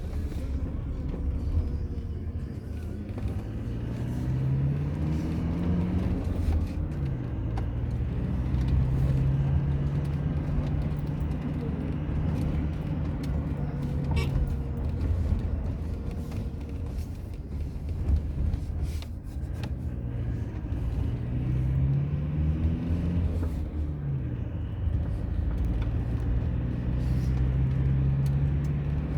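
Road vehicle engine running under way, with a constant low rumble. Its pitch rises as it speeds up and drops sharply at a gear change twice, about six seconds in and again about twenty-three seconds in, holding steady in between.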